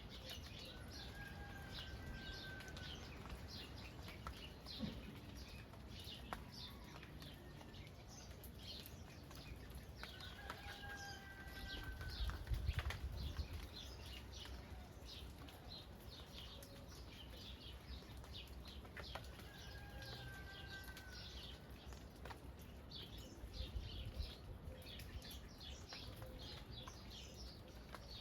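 Small birds chirping steadily in light rain, with a longer flat whistled call about every nine seconds. A low rumble swells briefly twice.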